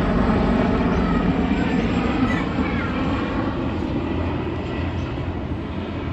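A train running past, its engine drone and rolling noise growing steadily fainter as it moves away.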